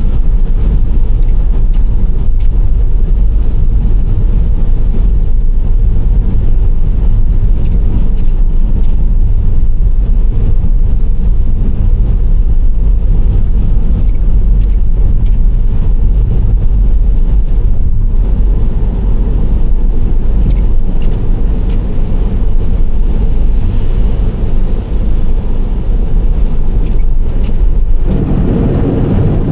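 Nissan Serena C25 minivan driving at steady speed: continuous low road rumble of tyres and engine, with faint light ticks over it. The low rumble grows louder near the end.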